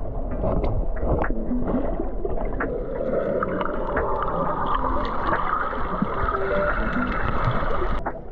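Muffled sea water heard through a camera in or at the water's surface while snorkeling: gurgling and sloshing with many scattered sharp clicks.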